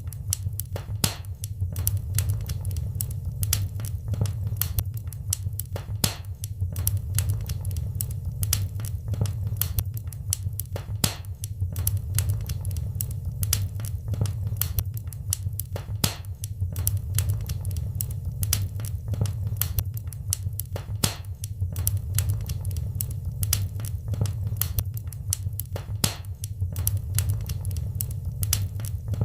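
Wood fire in a fireplace crackling and popping, with sharp irregular snaps several times a second over a steady low rumble of flame.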